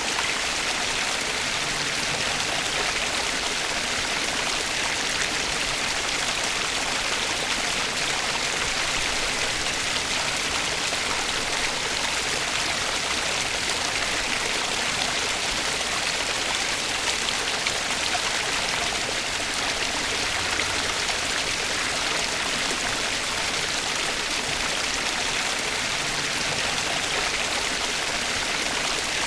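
Flowing water of a stream, a steady, unbroken rush with no change in level.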